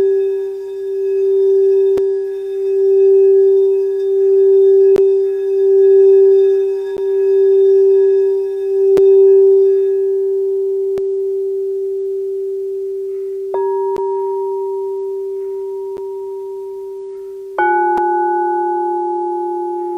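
Singing bowls ringing. One bowl hums a steady low tone that swells and fades in a slow regular pulse, then dies away. Two more strikes, about 14 and 18 seconds in, add higher ringing tones over it.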